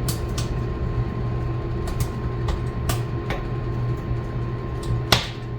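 Firewood burning in a wood stove, crackling with irregular sharp pops, the loudest about five seconds in, over a steady low hum.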